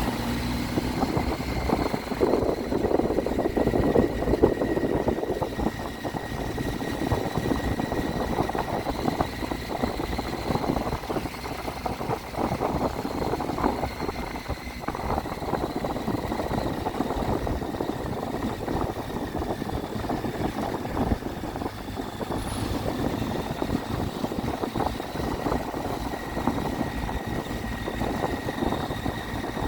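Triumph Tiger 800's three-cylinder engine running steadily under way, mixed with the road and wind noise of the ride.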